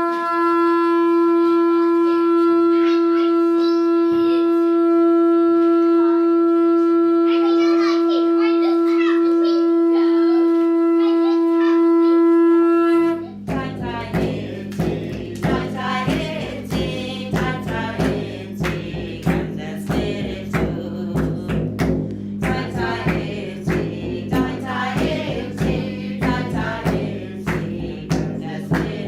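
A single long blown note on a horn-like wind instrument, held steady at one pitch for about thirteen seconds. It breaks off abruptly and gives way to music with a steady beat.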